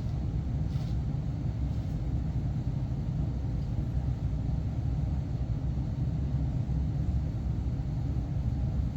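Steady low rumble, typical of machinery running in a boiler room, with a couple of faint clicks about a second in.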